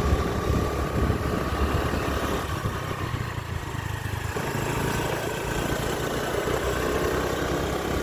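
A vehicle's engine running steadily while on the move, with road and wind noise over it.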